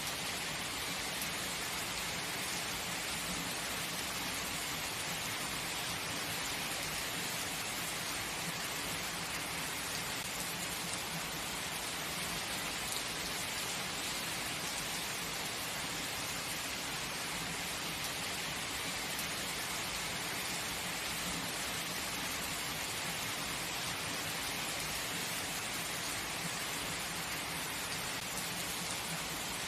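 Heavy rain falling steadily, an even hiss with no change in strength and no thunder.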